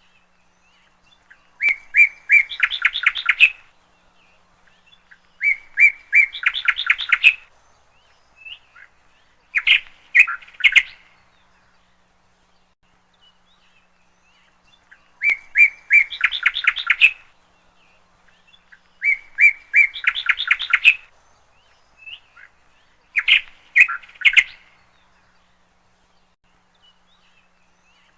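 A songbird singing a repeated song: each phrase is a few clear notes followed by a quick trill, sung about every four seconds with short silences between.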